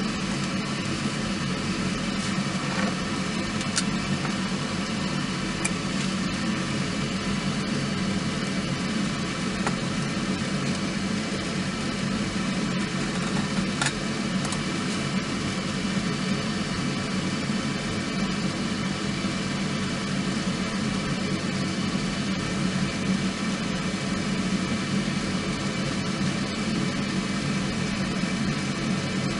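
A steady hum with a few single sharp crackles from a small wood fire burning in a compact fire pit.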